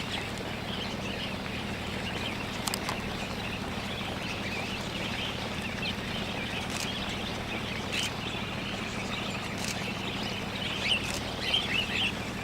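A flock of wild cockatiels chirping and calling, with short calls throughout that grow busier near the end. A steady low hum and a few sharp clicks lie underneath.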